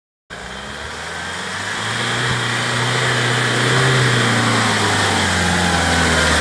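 Land Rover Defender's four-cylinder diesel engine running as the vehicle drives off-road, growing louder as it comes closer over the first few seconds. The sound cuts in abruptly just after the start.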